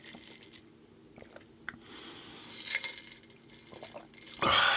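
Close-miked chewing of food: soft wet mouth clicks and smacks, with a louder breathy rush near the end.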